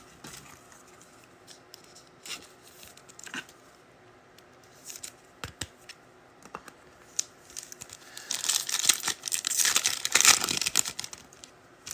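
Foil trading card pack being torn open and crinkled, in a dense crackle in the last few seconds, after a stretch of scattered light clicks and taps of cards being handled.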